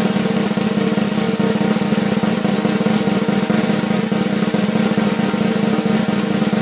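A sustained snare drum roll: rapid, even strokes held at a steady level without a break.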